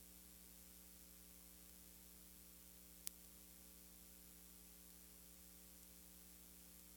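Near silence: a steady electrical hum under a faint hiss, with a single sharp click about three seconds in.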